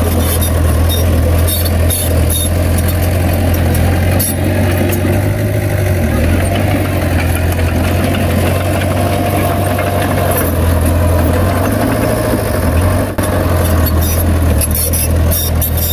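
Bulldozer's diesel engine running steadily with a deep hum, and light rattling clicks now and then, most of them near the start and near the end.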